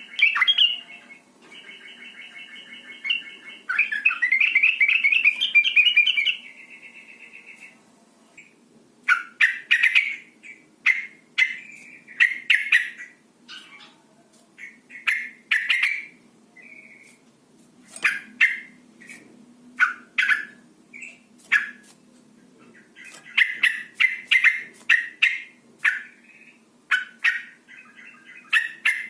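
Female yellow-vented bulbul (trucukan) calling. It gives a buzzy chatter in the first few seconds, then many short, sharp "cuk" chirps in irregular clusters. These are breeding-condition calls of the female, used to get males to call.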